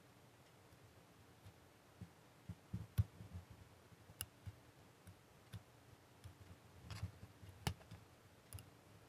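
Scattered small clicks and soft knocks as a plastic scale ship model is handled and masking tape is peeled from its painted hull. The sharpest clicks come about three, four and nearly eight seconds in.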